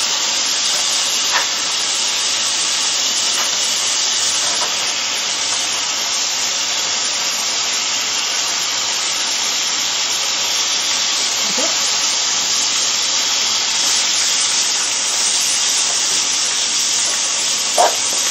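Beef, lobster tail and fried tofu sizzling in hot oil in a non-stick frying pan: a steady, even frying hiss.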